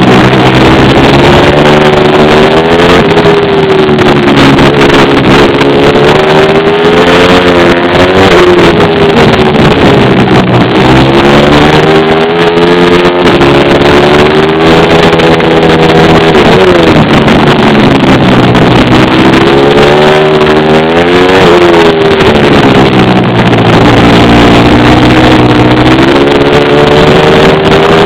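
Pit bike's small single-cylinder engine revving up and dropping back repeatedly as the bike accelerates and slows, its pitch climbing and falling several times. Very loud.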